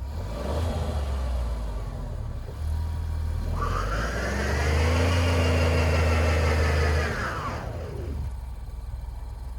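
Alfa Romeo Giulia Quadrifoglio's twin-turbo V6 running and then revving up about three and a half seconds in, held high for about three seconds before dropping back, as the car sits stuck in deep snow.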